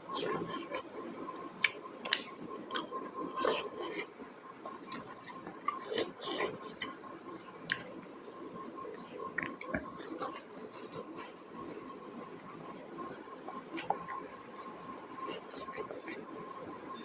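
Close-up chewing and biting of food, wet smacking and crunching clicks coming irregularly, a little busier in the first few seconds.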